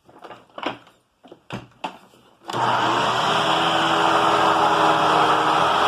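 A few handling clicks and knocks, then about two and a half seconds in a Hoover WindTunnel upright vacuum cleaner switches on. Its motor spins up within a fraction of a second and runs loud and steady.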